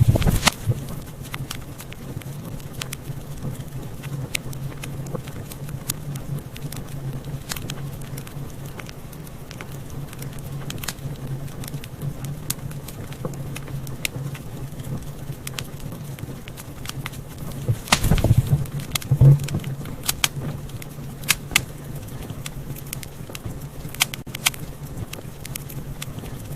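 Wood fire burning in a fireplace: a steady low rumble of flames under frequent small crackles and pops, with a cluster of louder pops about two-thirds of the way through.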